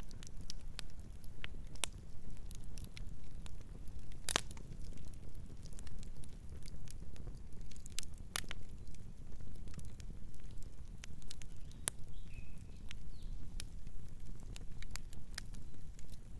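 Wood fire crackling: irregular sharp pops and snaps over a low, steady rumble of burning, with the loudest pops about four seconds and about eight seconds in.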